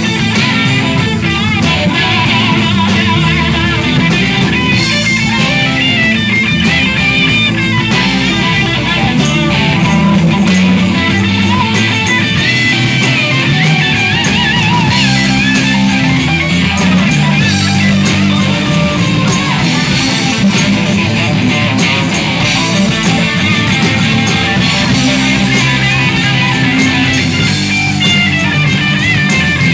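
Live rock band playing an instrumental passage: a guitar lead with wavering, bent notes over bass and drums.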